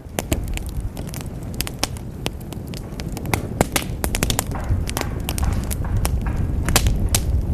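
Wood fire burning in a fireplace, crackling with frequent sharp, irregular pops and snaps over a steady low rumble.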